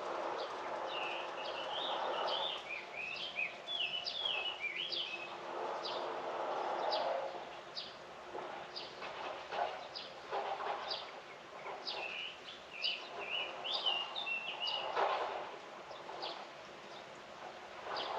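A songbird singing two quick, jumbled warbling phrases of a few seconds each, about ten seconds apart. Patches of rustling noise and scattered short clicks sound alongside.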